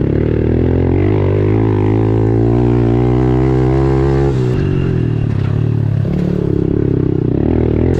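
Honda CRF110 pit bike's small single-cylinder four-stroke engine being ridden, its pitch climbing under throttle, then dropping suddenly about four seconds in as the rider shifts or backs off, before running on at a steadier pitch.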